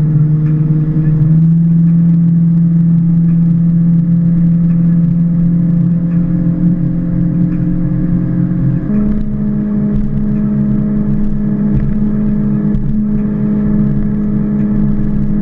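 Inboard 5.7-litre (350) V8 of a Moomba ski boat running steadily under way, its engine note stepping up twice as the throttle is opened further: about a second in and again about nine seconds in.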